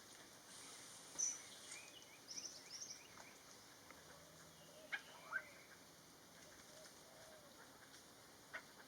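Faint forest bird calls: scattered short high chirps, and a few low, soft arching calls in the middle from a ferruginous partridge. Two or three sharp clicks stand out.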